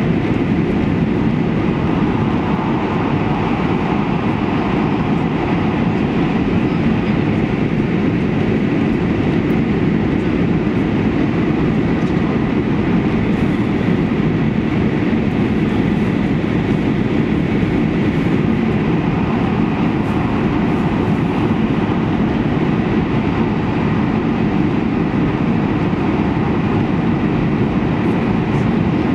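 E2 series Shinkansen running steadily, heard inside the passenger cabin: an even, unbroken low rumble with a fainter hiss above it, without any clickety-clack rhythm.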